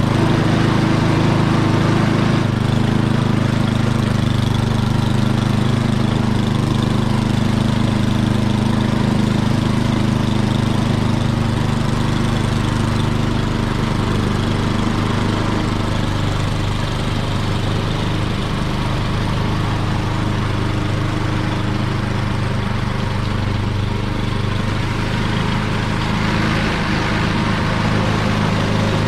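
Snowblower engine running steadily, a little quieter in the middle and picking up again near the end.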